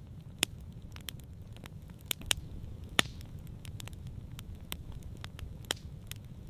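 Campfire crackling: irregular sharp pops and snaps of burning wood over a steady low rumble, the loudest snap about three seconds in.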